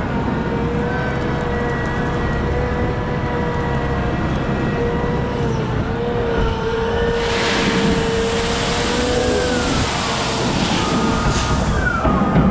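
Heavy diesel machinery running steadily with a low rumble and a constant whine. About seven seconds in, a broad hissing rush rises over it for roughly five seconds, and a short falling tone comes near the end.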